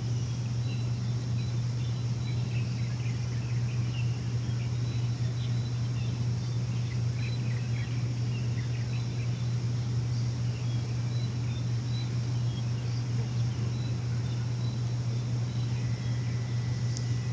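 Steady low machine hum, with small birds chirping faintly and intermittently over it. Near the end a thin, steady high tone joins in.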